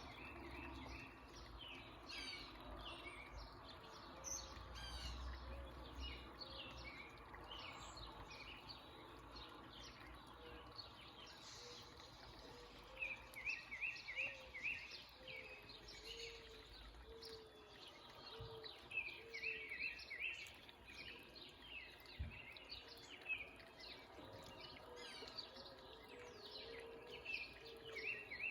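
Several backyard songbirds chirping and calling over steady background noise, with quick runs of rapid chirps every few seconds and a low note repeating about twice a second underneath.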